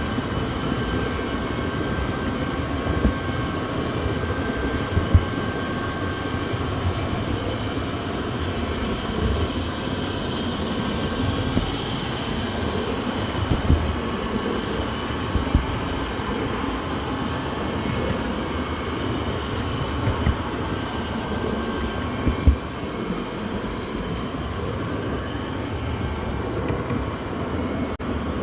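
Train running on rails: a steady rumble and rattle, broken by a few short knocks.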